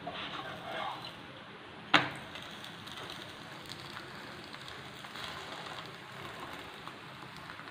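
Parotta frying on a hot tawa: a steady sizzle of the dough in oil as a spatula presses it, with one sharp tap about two seconds in.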